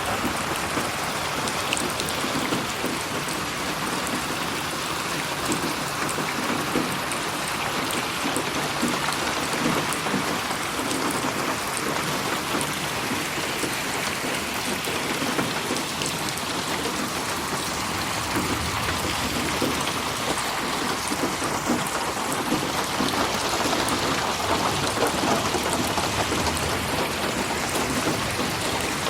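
Steady rain: a continuous hiss of falling rain with fine pattering drops, mixed as 8D audio that moves around the listener.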